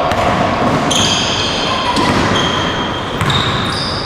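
Indoor basketball play: sneakers squeaking sharply on the court in many short squeals, with the ball bouncing.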